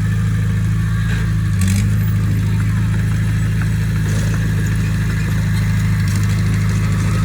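Diesel engine of a heavy machine running steadily at an even speed.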